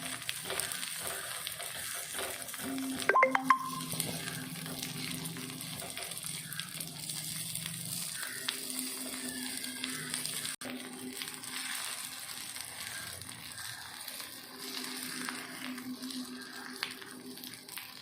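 Egg omelette batter sizzling in oil in the hollows of a kuzhi paniyaram pan on low flame. A few sharp metal clicks come a little over three seconds in, as the balls are turned in the pan.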